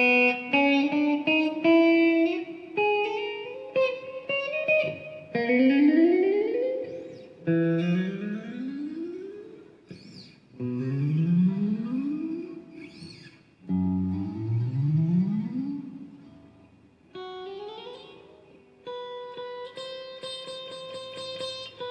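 Electric guitar played through a '65 Deluxe tube amp: picked notes and short runs with several quick slides up the neck, ending on a chord held for a couple of seconds.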